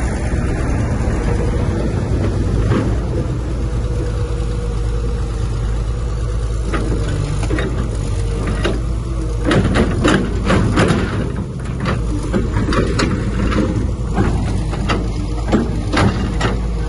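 Heavy diesel earthmoving machinery running steadily, with a run of clanks and knocks in the second half.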